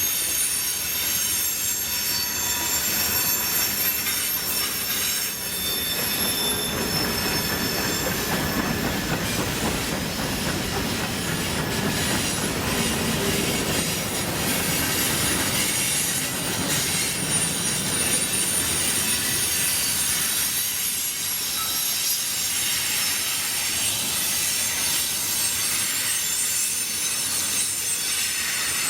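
Manifest freight train rolling past, its steel wheels squealing on the rail in many steady high-pitched tones over a continuous rumble of the wheels.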